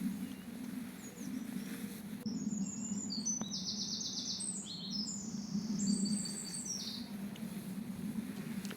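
A songbird singing rapid trilled phrases of quick repeated high notes, from about two seconds in until near the end, over a steady low hum.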